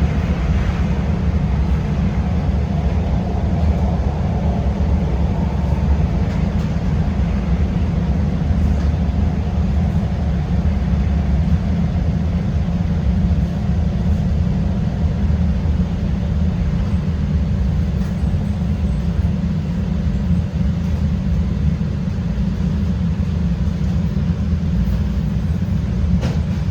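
CTA Red Line rapid-transit train running between stations, heard from inside the car: a steady, loud low rumble of wheels on the rails and running gear.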